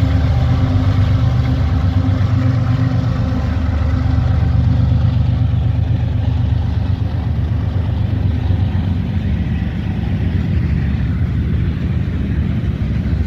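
Diesel locomotives of a freight train passing close by, their engines a steady low drone that gives way about eight seconds in to the rumble of freight cars rolling past.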